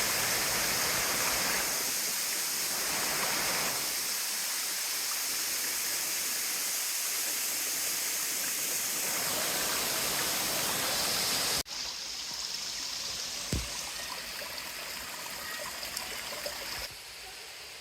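Stream water rushing and splashing over rocks, steady and loud. About two-thirds of the way in it cuts off abruptly to a quieter rush of water, with one short knock soon after.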